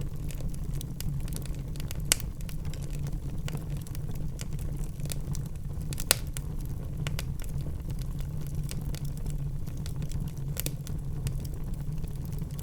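Wood fire burning in a fireplace: frequent small crackles, with two sharper pops about two and six seconds in, over a steady low rumble.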